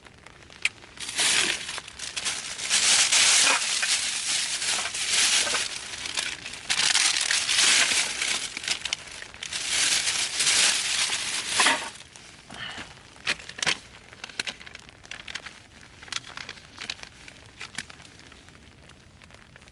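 Crinkly material such as wrapping or packaging being crumpled and handled, a loud rustling that goes on for about ten seconds, then stops. Scattered small clicks and crackles follow.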